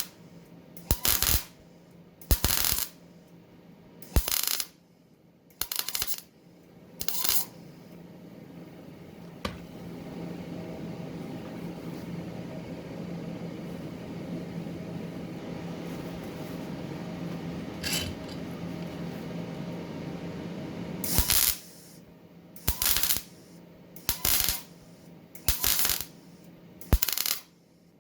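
Sherman 200M MIG welder arc with 0.8 mm wire, crackling in short bursts of under a second each, about every second and a half: a run of tack or stitch welds on thin metal. In the middle stretch the bursts stop and a steady low hum is heard instead.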